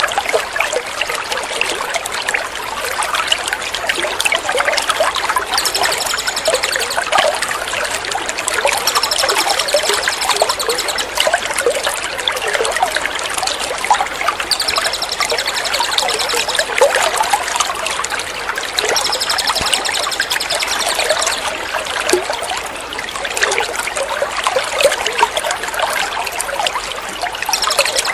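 Steady trickling water from a water-therapy track, with a small songbird's high, rapid trilling phrases coming in several times over it, each lasting a second or two. It is a recorded bird-training (masteran) mix.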